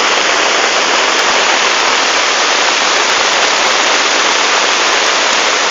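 Loud, steady rush of floodwater running over the ground.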